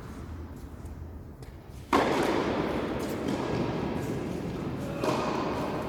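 A sudden loud thud about two seconds in, followed by a lingering rush of noise, and a second, weaker thud about three seconds later.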